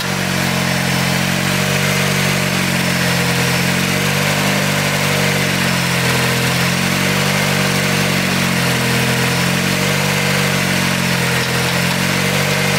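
Car engine idling steadily, its idle speed wavering slightly up and down. It has just been started after work on it, with the ignition timing freshly set.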